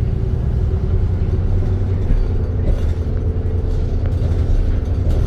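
ADL Trident II Enviro 400 double-decker bus running, a steady low rumble with a constant engine hum.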